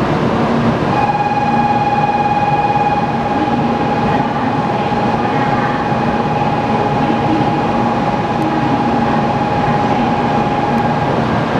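A 700 series Shinkansen train idling at the platform, its onboard equipment running under a steady station hum. A steady high tone starts about a second in and stops just before the end.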